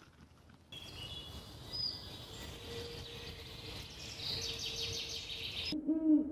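Small birds chirping, with a quick trill about two-thirds of the way in, over outdoor background noise. Near the end the sound cuts to a low hooting call.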